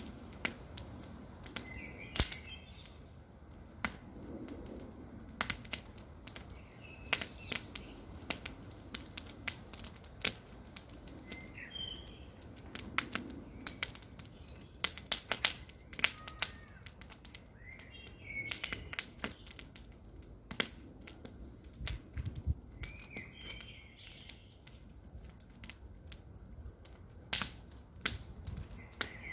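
Wood campfire crackling, with frequent irregular sharp pops and snaps from the burning wood over a low flame rush. A bird chirps briefly every few seconds in the background.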